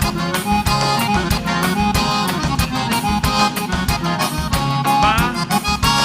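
Live gaúcho dance band playing an instrumental passage led by accordion, over bass and a steady, even beat.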